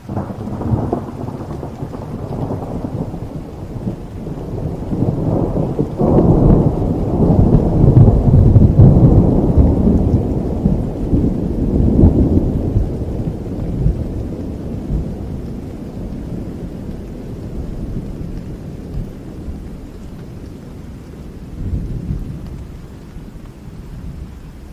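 A long rolling thunder rumble breaks in suddenly over steady rain. It swells to its loudest several seconds in, then slowly rumbles away, with a smaller swell near the end.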